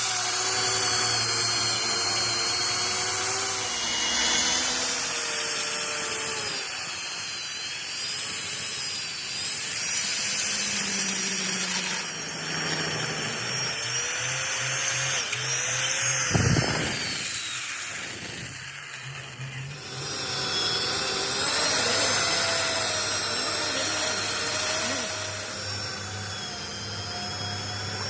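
Electric power tool running on a steel truck frame, a continuous noisy whine that rises and falls in pitch as the load changes, easing off briefly about two-thirds of the way through.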